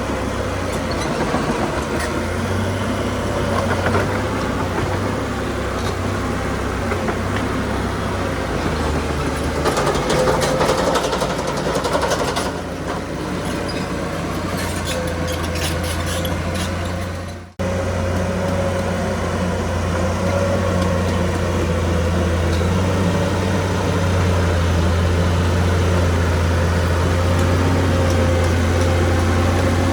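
Heavy diesel engine of earthmoving machinery running steadily, with metallic rattling and clanking in the middle. The sound cuts out abruptly for an instant a little past halfway and then carries on.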